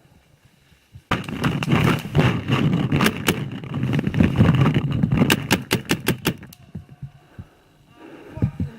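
Paintball markers firing a rapid string of shots, popping several times a second. The shots start about a second in and last around five seconds; the last few are spaced out.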